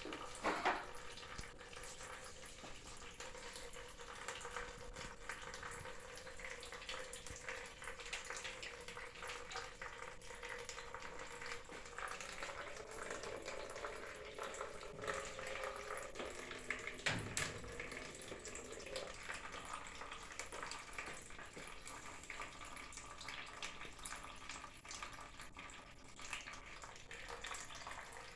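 Water trapped in a gas furnace's flue pipe running steadily out through a hole made to drain it, with a couple of brief knocks. The water collected because the pipe had sloped back away from the furnace.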